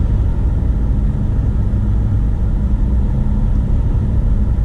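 Steady low rumble of a car's road and engine noise while driving, heard from inside the cabin, with a faint steady hum underneath.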